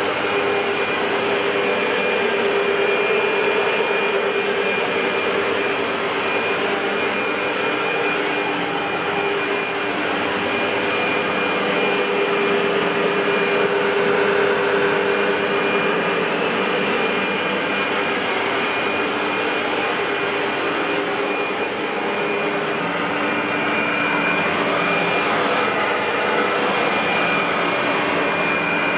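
Century 400 U-Vac commercial upright vacuum cleaner, a rebadged SEBO UPV 12, running steadily: a continuous rush of air with a steady motor whine in it, and a short higher hiss about 26 seconds in.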